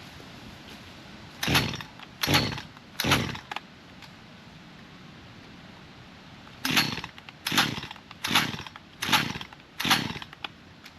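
Gas chainsaw being pull-started, its starter cord yanked in two quick series, three pulls and then five, about a second apart. The engine turns over with each pull but never catches: the saw is not starting.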